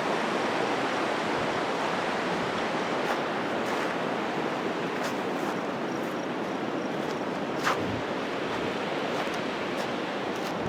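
Steady rush of flowing river water, an even roar without a beat, with a faint knock about eight seconds in.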